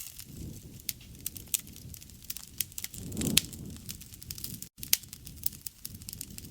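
Wood fire crackling: many sharp pops and snaps over the low rush of burning, swelling briefly about three seconds in.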